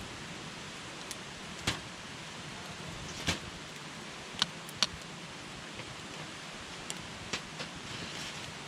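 Wood campfire burning: a steady hiss of flames broken by sharp crackles and pops from the burning wood, the two loudest pops close together about halfway through.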